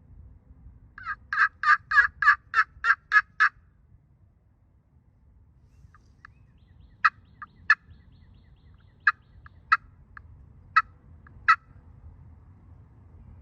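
Wild turkey yelps: a run of about nine evenly spaced yelps rising and falling in loudness, then after a pause a string of short, sharp clucks, mostly in pairs.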